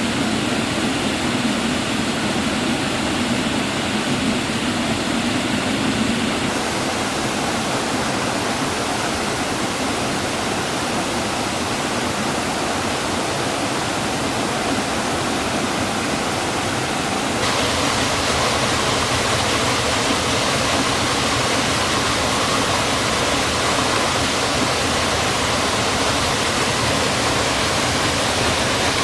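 Waterfall water rushing steadily. Its tone changes abruptly twice, about six seconds in and again around seventeen seconds.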